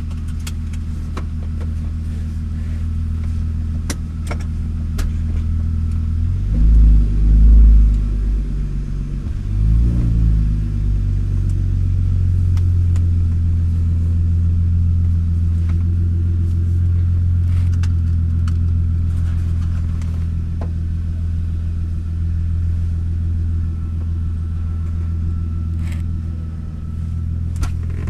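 BMW E36 exhaust through a new muffler, the engine idling steadily with two short revs of the throttle, about seven and ten seconds in.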